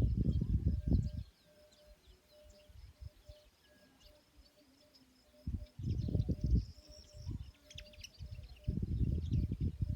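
Birds chirping, with a faint insect-like call pulsing at an even rate. Loud low rumbling noise comes and goes: at the start, again about halfway, and near the end.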